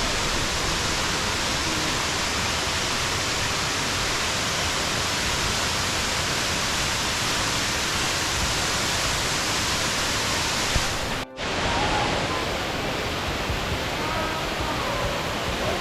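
Waterfall rushing: a steady, loud hiss of falling water that drops out for a moment about eleven seconds in, then resumes.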